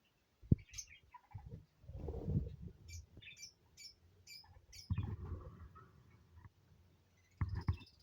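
A parrot chirping: a short high chirp, then a quick run of five short high chirps a few seconds later. Around them are low bumps and rustling, including a sharp knock near the start.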